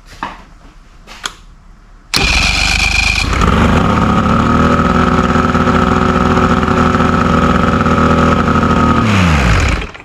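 A few light clicks, then the 1989 Bass Tracker's three-cylinder outboard motor is cranked by its electric starter about two seconds in and catches almost at once. It runs at a steady speed, then is shut off near the end, its note falling as it stops. It is starting after a new trigger and a replacement coil restored the missing spark on cylinder three, curing its crank-but-no-start fault.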